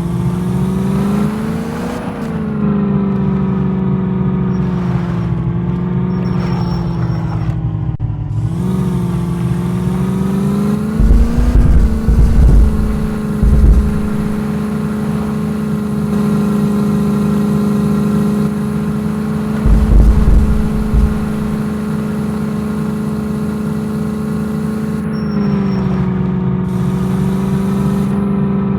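Open jeep's engine running at steady revs, rising briefly three times in the first half, with a few heavy low thumps about halfway through and again later.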